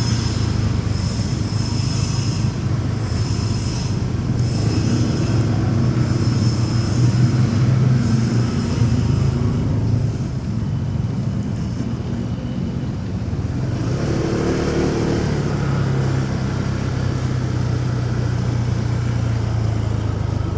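Motorcycle engine running while riding in city traffic, with road and wind noise. The engine note eases off about halfway through and picks up again a few seconds later.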